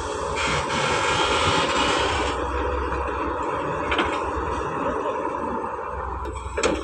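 Doosan DX180 wheeled excavator working, its engine running with a loud rushing noise for about two seconds, then a single knock about four seconds in and a sharp clank near the end.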